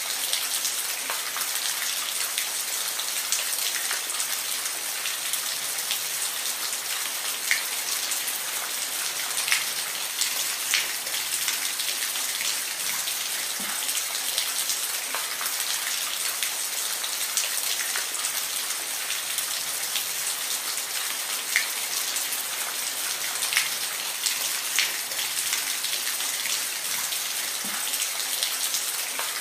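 Steady rainfall hissing on a surface, with scattered individual drips ticking through it.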